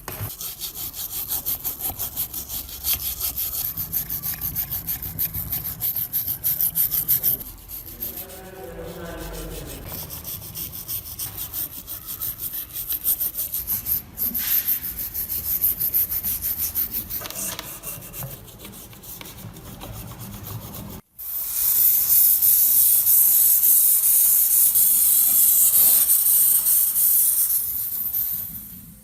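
Rusty metal being scrubbed by hand with quick back-and-forth strokes, easing into softer rubbing with some squeaks. About two-thirds of the way in, after a cut, a loud steady hiss takes over and runs until shortly before the end.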